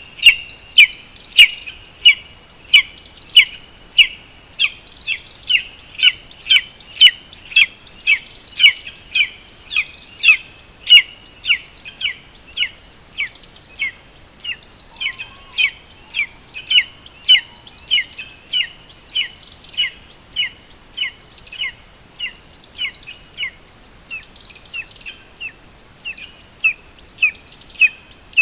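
A bird giving a short, sharp call over and over, about one and a half calls a second, each a quick downward note.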